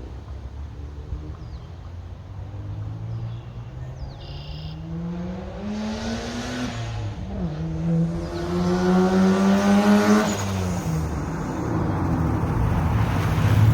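Turbocharged 2.7 L V6 of a 2005 Hyundai Tiburon accelerating under load. The engine's pitch climbs, dips briefly about seven seconds in, climbs again, then falls off after about ten seconds, while the overall noise keeps getting louder.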